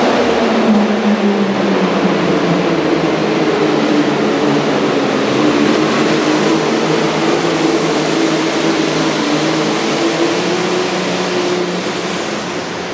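Super Farm pulling tractor's turbocharged diesel engine running at full throttle under load during a pull. It is a loud, steady roar whose pitch wavers slightly and eases a little near the end.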